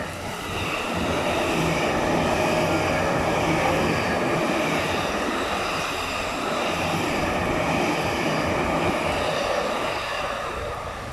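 JR E257 series 5000 sub-series electric train passing through a station at speed: a steady rumble of wheels and running gear with a faint motor tone. It swells about a second in and eases near the end, with heavy rain hissing throughout.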